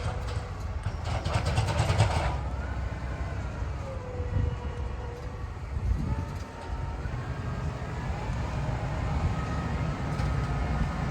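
Tractor engine running with a heavy low rumble and a faint whine that drifts up and down in pitch as it pushes chopped corn silage forward on the pile. A brief rushing noise comes about a second in.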